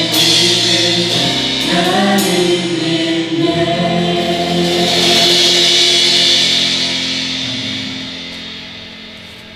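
Worship band and congregation singing a gospel praise song, ending on a held chord that fades away over the last few seconds.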